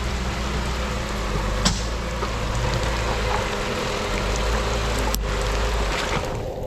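Steady rain noise over an off-road vehicle's engine running low, with two sharp clicks, one about two seconds in and one about five seconds in.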